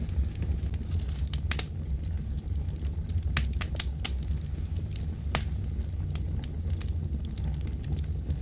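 Fire crackling: irregular sharp pops, the strongest a little past halfway through, over a steady low rumble.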